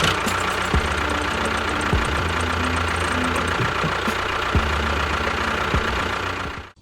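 A small engine or motor running steadily, with a few irregular low knocks. It cuts off abruptly near the end.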